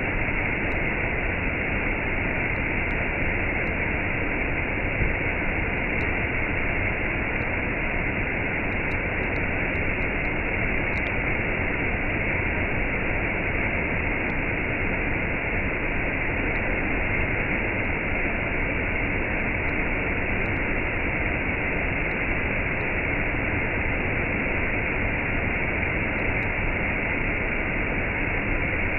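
Waterfall and cascade rushing steadily: a continuous, even sound of falling water with no change in level.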